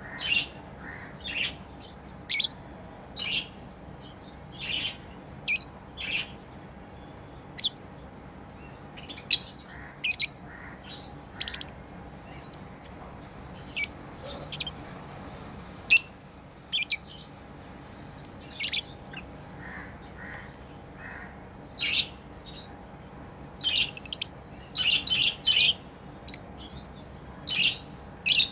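Pet lovebirds chirping: short, high-pitched calls at irregular intervals, coming more densely near the end.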